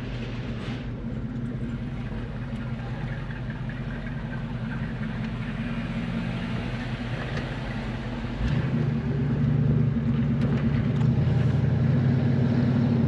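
1968 AMC AMX's 390 V8 running during a drive, heard from inside the cabin along with road noise. About two-thirds of the way through, the engine gets louder and its low note grows stronger.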